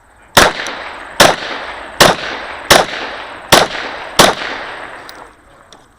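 Six pistol shots from a 9mm Glock 34, fired at a steady pace of about one every three-quarters of a second, each followed by a ringing echo.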